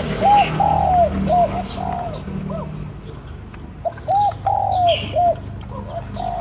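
Spotted dove cooing: two phrases of about five mellow coos each, the second starting about four seconds in, over a steady low hum.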